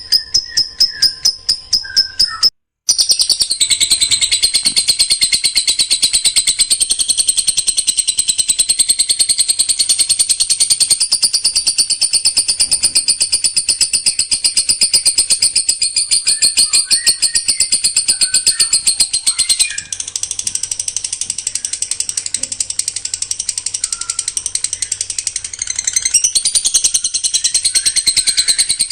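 Songbird singing a fast, dense high-pitched trill of rapid repeated notes run closely together, the kind of 'tembakan rapat' used as masteran for training caged birds. It breaks off for a moment about three seconds in, then goes on without pause.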